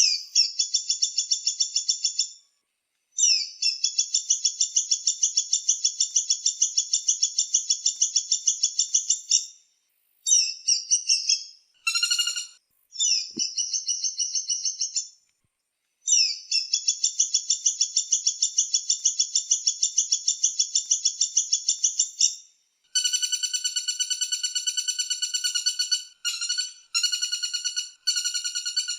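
Recorded bird calls played as a song-training track of kapas tembak and woodpecker. They come in long runs of fast, evenly repeated high notes, most lasting several seconds, with short breaks and a few shorter bursts between them.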